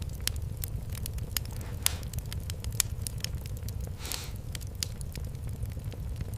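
Fireplace fire crackling, with irregular sharp pops over a steady low rumble. A brief hiss comes about four seconds in.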